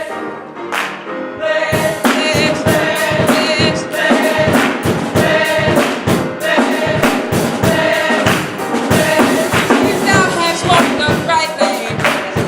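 Youth gospel choir singing with band accompaniment; a drum kit comes in about two seconds in and keeps a steady beat.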